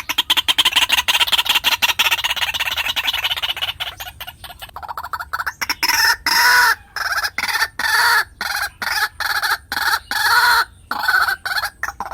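White-breasted waterhen calling: a loud, harsh series of repeated notes, packed fast and close for the first few seconds, then breaking into separate notes about three a second.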